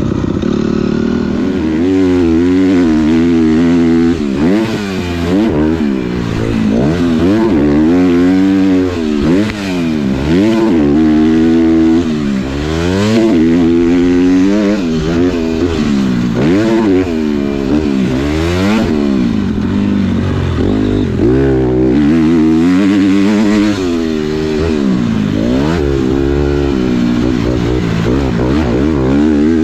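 Dirt bike engine ridden hard around a motocross track, revving up and dropping back over and over, every second or two, as the throttle is opened and shut.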